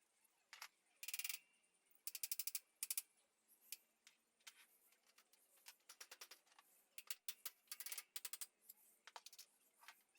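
Faint hand-tool work on metal: several short bursts of rapid clicking with scattered single taps and clinks.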